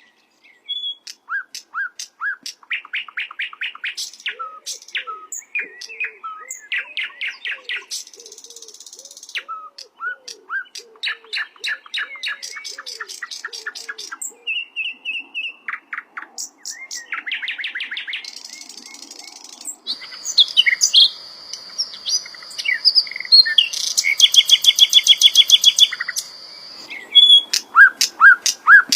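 Sikatan londo songbird singing a fast, varied song of quick trills, chirps and short whistles. Past the middle a steady high note runs for several seconds under rapid trills, and the song grows louder.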